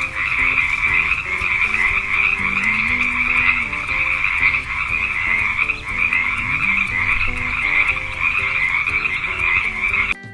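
Frog croaking in a continuous, fast-pulsed call that cuts off suddenly just before the end.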